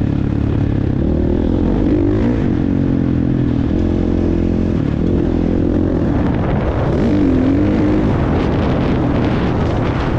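Motocross bike engine running hard, its pitch rising and falling as the throttle opens and closes.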